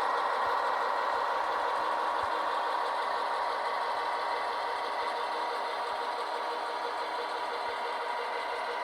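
HO scale model train running, a steady small-motor hum and rolling noise that slowly grows a little quieter.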